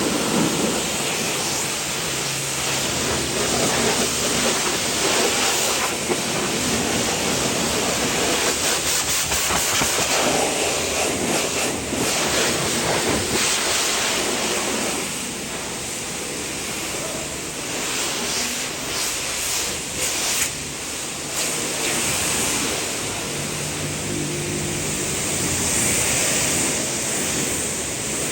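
Water spraying hard onto the truck's body: a steady hissing rush that shifts and dips now and then as the spray moves.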